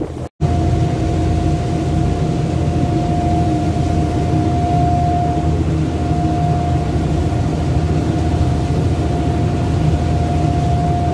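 Passenger ferry's diesel engine running steadily, with a deep hum and a constant high whine above it.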